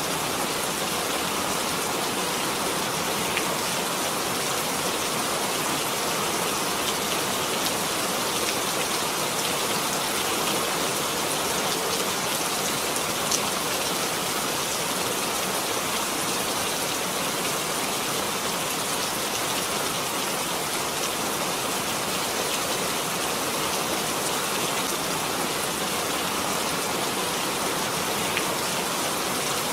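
Steady rain falling, an even hiss of drops with a few sharper individual drop ticks.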